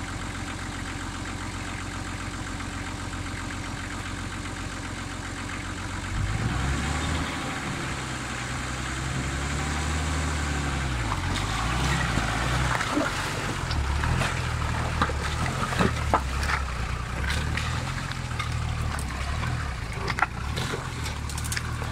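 Nissan Patrol 4x4 engine idling steadily, then about six seconds in it revs up and pulls away, its note rising and falling under load as the truck crawls off-road. From about halfway on, scattered knocks and clatter sound over the engine.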